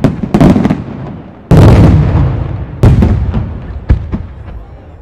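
Firework shells exploding: four loud bangs, the biggest about a second and a half in, each trailing off in a long echo, with lighter pops between them.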